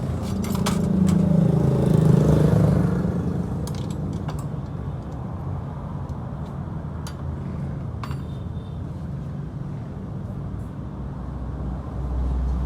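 Motorcycle engine running, swelling up for the first few seconds, loudest about two seconds in, then settling to a steady run, with scattered metallic clicks.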